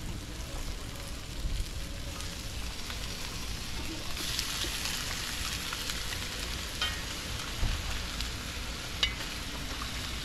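Raw yard fowl (chicken) pieces going by hand into a hot pot of curry masala and sizzling in the oil. The sizzle swells about four seconds in, with a few sharp pops near the end.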